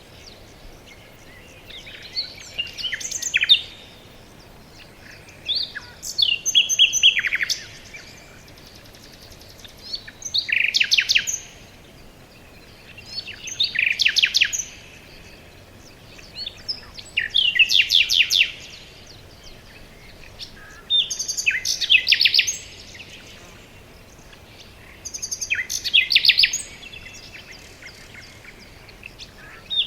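A songbird singing the same short, rapid trilled song phrase again and again, about every four seconds, over a faint steady background hiss.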